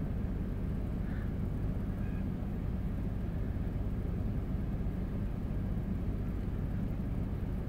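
Vehicle engine idling, a steady low hum heard from inside the car's cabin while it sits stopped.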